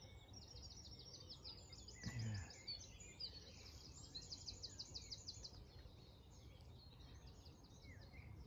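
A songbird singing several phrases of rapid, evenly repeated high notes, faint over a low steady outdoor rumble; a single brief low thump about two seconds in.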